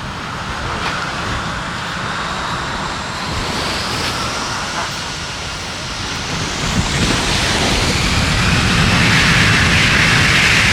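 Jet airliner engines spooling up to takeoff thrust: a rising whine over a rush of jet blast that grows louder, loudest in the last few seconds, with wind buffeting the microphone.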